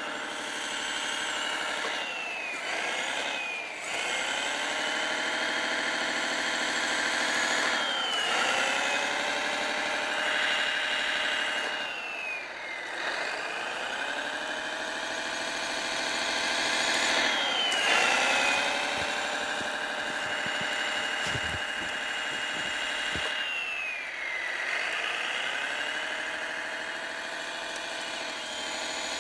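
Servonaut SMX sound module on a radio-controlled Kyosho Blizzard snow groomer, playing an engine sound. The pitch drops and climbs back up about every four to five seconds, with a high whine over it.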